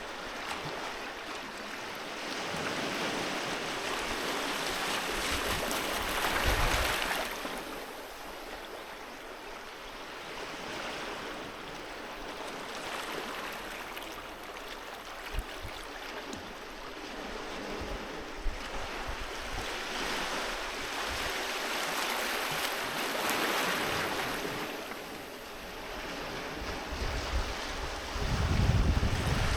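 Waves breaking and washing up on a beach, the surf swelling and easing in slow surges about every eight seconds, with gusts of wind buffeting the microphone.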